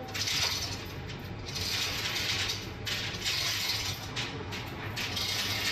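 Ratchet wrench being worked in four stretches of about a second each, over a steady low hum.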